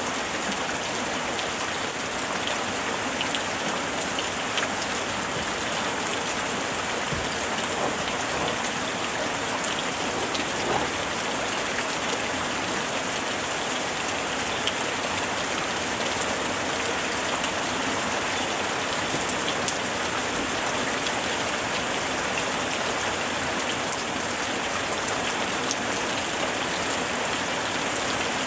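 Steady rain falling, with a continuous hiss and scattered individual drop taps on surfaces.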